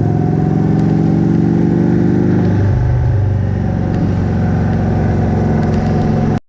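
Indian motorcycle's V-twin engine running under way, heard through the GoPro's built-in microphone mounted on the bike. The engine note drops about halfway through, then holds steady until the sound cuts off abruptly near the end.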